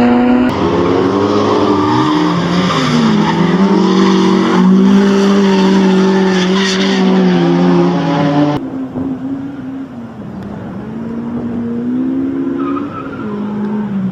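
A four-cylinder car engine revving hard, its pitch climbing and falling through the gears. The sound cuts abruptly about half a second in and again after about eight and a half seconds, when it drops to a quieter, duller engine note that rises again near the end.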